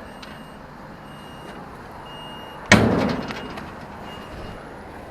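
A single loud bang, such as a slam, about two and a half seconds in, dying away over about half a second, over a steady background of street traffic noise.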